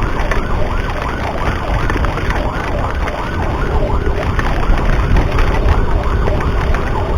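Ambulance siren in a fast rising-and-falling yelp, about three sweeps a second, heard under heavy wind and road rumble on a moving motorcycle's microphone.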